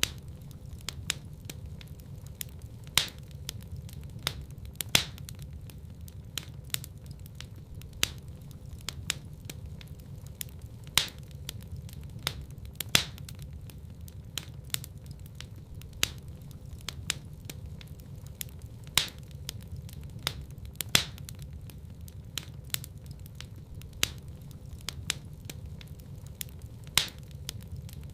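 Wood fire crackling in a fireplace: sharp pops and snaps come at irregular moments, several a second, with louder ones every couple of seconds, over a steady low rumble of the burning.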